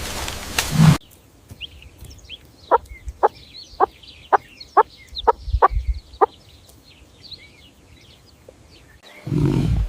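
Chicken clucking: a series of about eight short clucks, roughly two a second, over faint high chirping. A loud burst of noise fills the first second and another comes near the end.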